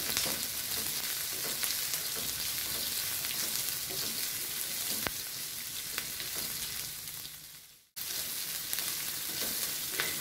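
Sliced shallots, green chilli and chana dal sizzling in hot oil in a nonstick kadai as a spatula stirs them, with a couple of light taps of the spatula on the pan. The sizzle fades and cuts out for a moment about eight seconds in, then comes back.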